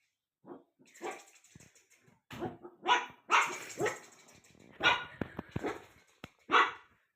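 A dog barking repeatedly in short separate barks, the loudest from midway through and once more near the end.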